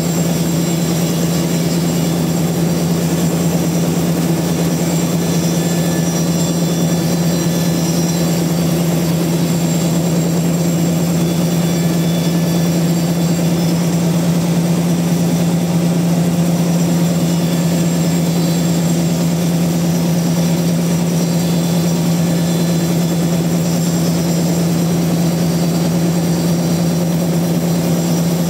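Large log sawmill running steadily, a constant loud machine hum with no change in pitch.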